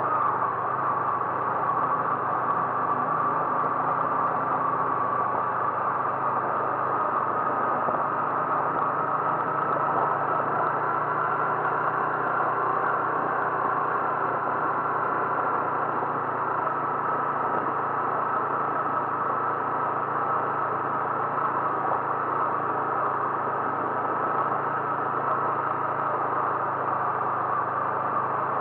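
Car on the move: a steady mix of engine and road noise with a low hum, unchanging throughout.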